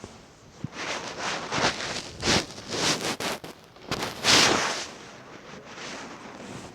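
Irregular rustling and crinkling noises in uneven bursts, the loudest about two and four seconds in, dying down over the last couple of seconds.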